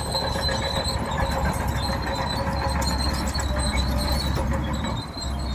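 Bulldozer at work: a low diesel engine rumble with a steady high squeal from the crawler tracks. The sound dips briefly about five seconds in.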